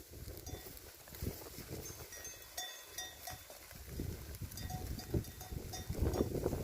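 Sheep tearing and chewing grass: irregular short crunching and ripping strokes. Brief high ringing tones come now and then.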